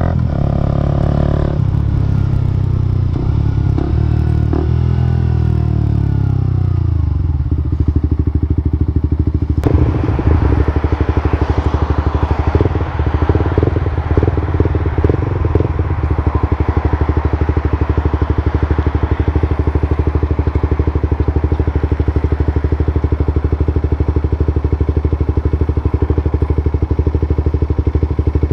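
Suzuki GSX-R125 single-cylinder engine through an aftermarket slip-on exhaust, revved and falling back in pitch a few times in the first several seconds, then settling into a steady idle. A rushing hiss joins about ten seconds in, with some irregular clatter over the following several seconds.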